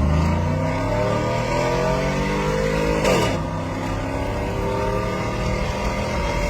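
Cammed 6.0-litre V8 in a Chevrolet Silverado, breathing through stock manifolds, a catless Y-pipe and a 2.5-inch Speedy Sport muffler, accelerating at full throttle. The exhaust note climbs in pitch, drops sharply at a gear change about three seconds in, then climbs again.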